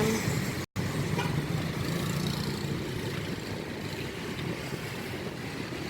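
Steady background noise of road traffic, with a brief dead gap of silence under a second in.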